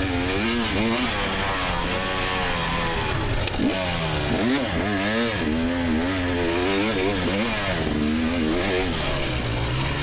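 2024 GasGas EX300 two-stroke dirt bike engine being ridden, its revs rising and falling over and over as the throttle is opened and closed.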